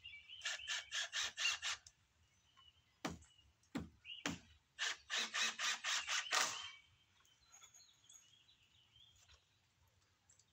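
Nails being driven into framing lumber in two quick bursts of sharp strikes, about five a second, with a couple of single strikes between the bursts. Birds chirp faintly throughout.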